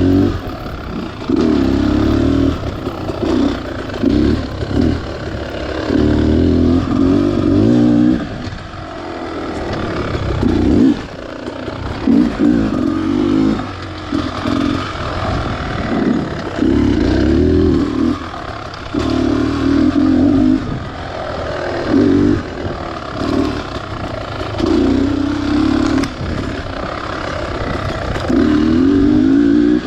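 Beta Xtrainer 300's single-cylinder two-stroke engine on a trail ride, the throttle opened and closed again and again, so the engine surges in bursts of a second or two.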